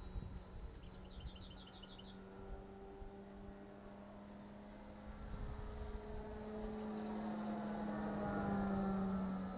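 Electric motor and propeller of a Spacewalker 2 RC model plane humming in flight, a steady tone that grows louder to a peak near the end as the plane passes closer. A bird's quick series of chirps about a second in.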